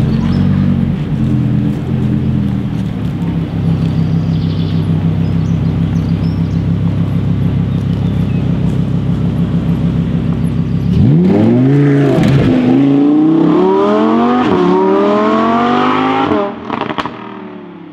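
Lamborghini Huracán Performante's naturally aspirated V10 running at low revs as the car rolls past. About eleven seconds in it goes to full throttle, the pitch climbing hard through about three upshifts before the sound drops away quickly as the car pulls off.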